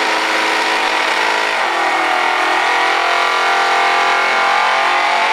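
1978 Chevrolet Nova drag car doing a burnout, its engine held at high revs while the rear tyres spin and smoke. The engine note dips briefly about two seconds in, then climbs back to a steady high pitch.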